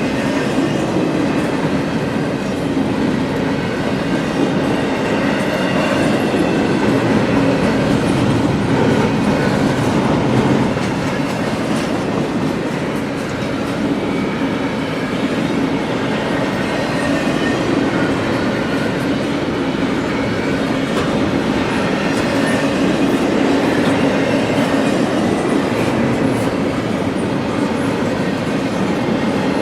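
Freight train cars rolling past on steel wheels: a steady, loud running noise of wheels on rail that carries on without a break, with faint thin wheel squeal on top.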